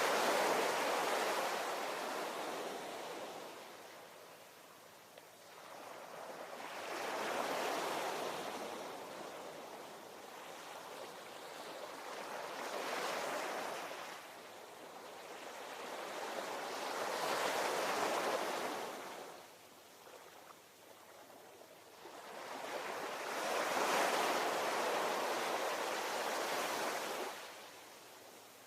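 Ocean waves breaking and washing up the shore, five surges that each swell and fade over a few seconds, one every five or six seconds.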